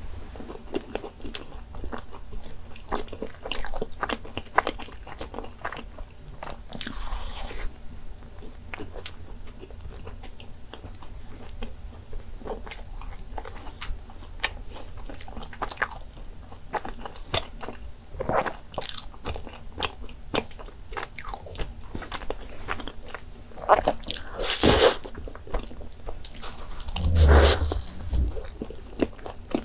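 Close-miked chewing and biting of a soft cream-filled pastry, full of small mouth clicks and smacks, with a few louder mouth noises near the end.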